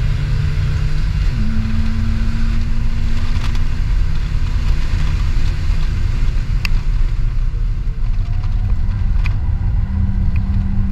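2003 BMW 325i's straight-six engine driven hard, heard from inside the cabin along with road and wind noise; the engine note changes pitch about a second in. A few sharp clicks come through over it.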